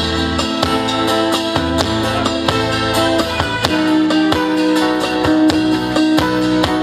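Live band music, an instrumental passage with guitar, steady held notes and frequent plucked attacks.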